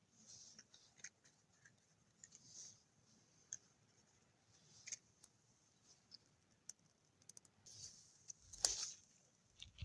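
Faint scattered clicks and short rustling hisses, with one sharper, louder click near the end.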